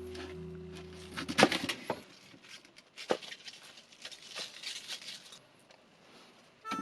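Background music ending in the first two seconds, then a few sharp knocks and faint crackling.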